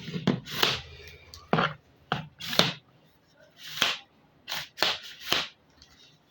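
Plastic fridge fruit baskets being handled, giving a series of about nine short rustling, clacking sounds at an uneven pace, stopping near the end.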